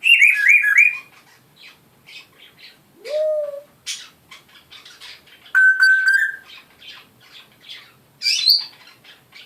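Pet parrot whistling and calling: a quick run of falling whistles at the start, a short rising whistle about three seconds in, a loud held whistle around six seconds, and a sharp rising squawk near the end, with soft clicks in between.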